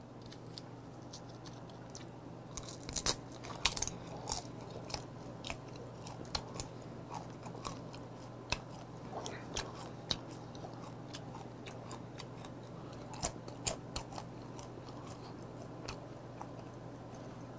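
A person chewing crispy dried pollack (meoktae) with its skin: scattered crisp crunches, bunched about three to five seconds in and again near the end, over a steady low hum.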